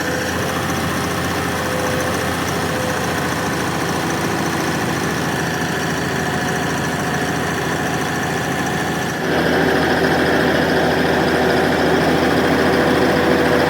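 An engine running steadily, with a step up to a louder, busier sound about nine seconds in.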